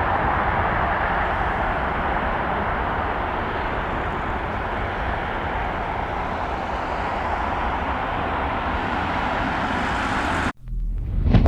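Boeing 757 jet engines heard from the ground as a steady rushing noise that slowly fades, then cuts off suddenly near the end.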